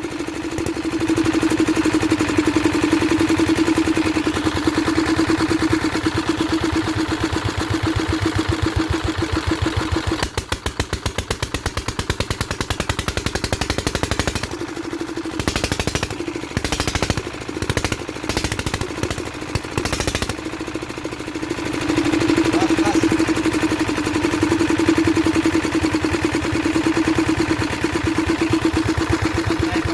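Old Kirloskar stationary engine running after a cold start following ten years idle, its rapid, even exhaust beat carrying a steady hum. Midway it turns uneven, dropping out briefly several times, then settles back into a steady run.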